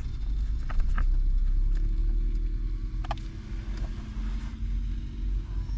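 A steady low rumble with a faint hum, like a vehicle running or passing, with scattered light clicks and taps of parts being handled.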